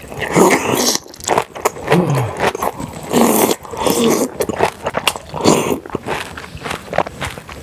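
Close-miked eating sounds: slurping a long strip of cabbage kimchi into the mouth, then wet chewing and smacking of a full mouthful of kimchi and soy-marinated shrimp, in irregular bursts.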